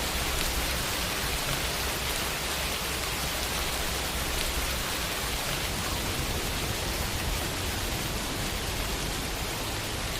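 Steady rain falling on a window, an even hiss of many drops with a low rumble underneath that eases about halfway through.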